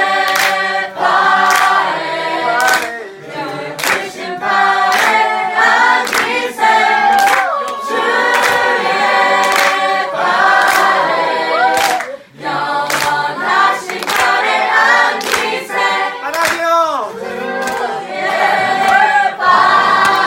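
A small group of voices singing a worship song together, with sharp hits keeping a regular beat about once a second.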